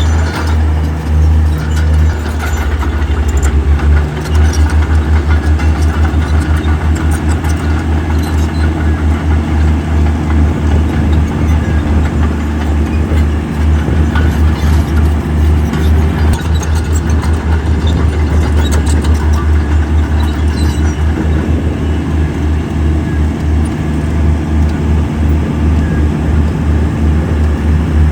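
Heavy diesel engine of an earthmoving machine running continuously, a deep, loud rumble with a fast, even pulse.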